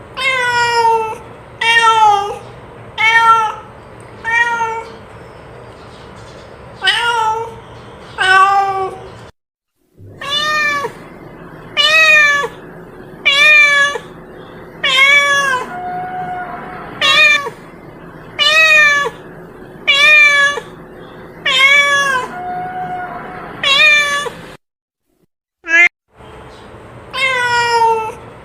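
Domestic cat meowing over and over, short meows that fall in pitch at the end, one about every second and a half. The sound cuts out briefly twice, about a third of the way in and again near the end.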